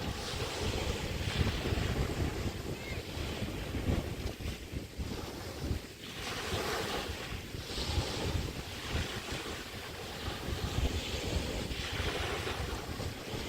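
Chesapeake Bay waves washing onto the beach in swells every few seconds, with wind buffeting the microphone in a constant low rumble.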